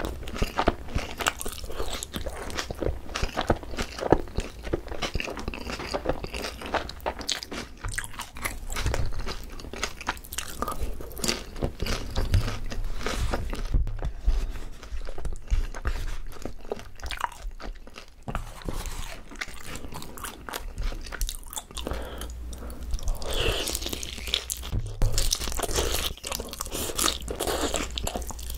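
Close-miked biting and chewing of crispy boneless fried chicken topped with shredded green onion, with many irregular crunches.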